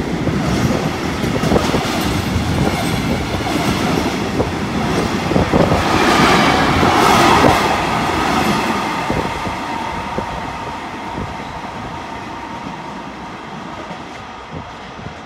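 Intermodal freight train's wagons, loaded with swap bodies and tank containers, running past close by with a dense rumble and wheel clatter. A high squeal rises about six seconds in and lasts a couple of seconds. Then the sound fades as the last wagon passes and the train draws away.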